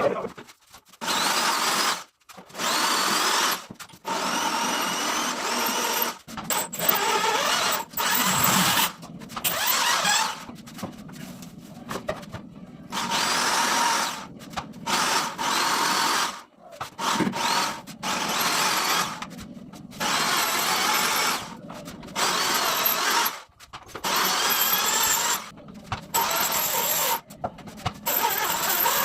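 Electric drill running in repeated bursts of a second or two, stopping and starting many times, its whine rising as the motor spins up. Typical of drilling mounting holes and driving screws to hang a mirror.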